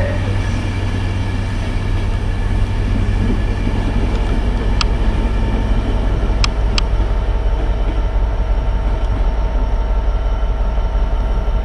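A train running at a station platform: a steady, loud low rumble with a held, even hum. About halfway through come three brief, sharp, high clicks.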